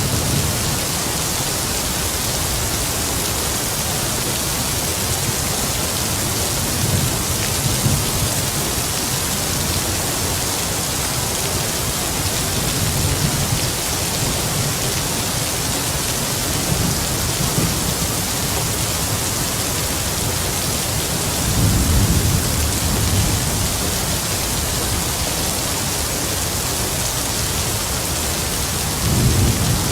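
Steady heavy rain, a dense even hiss, with distant thunder rumbling low several times, loudest about two-thirds of the way through and again at the end.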